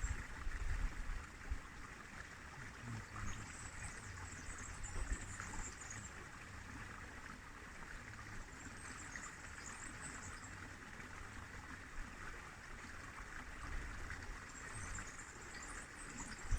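River water flowing steadily, with faint high chirping coming and going three times.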